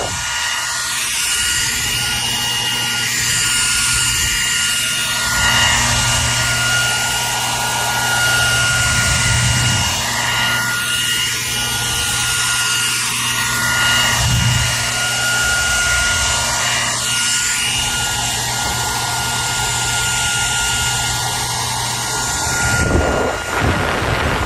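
Hair dryer running steadily: a rush of blown air over a constant high motor whine, wavering briefly near the end.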